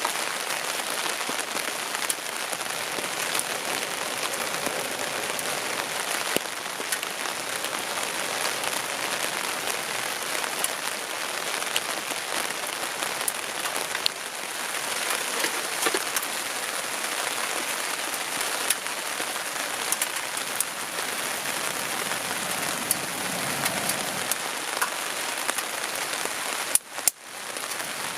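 Steady rain pattering down, with scattered sharper drop hits. It cuts out briefly near the end.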